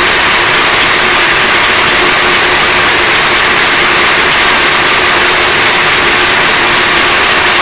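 Trabant's two-stroke two-cylinder engine idling steadily, recorded loud and close, with no change in speed. The owner reports this idle as a problem.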